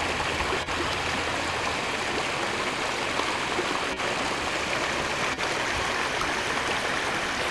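Water from a backyard koi pond's large waterfall pouring and splashing into the pond in a steady, unbroken rush.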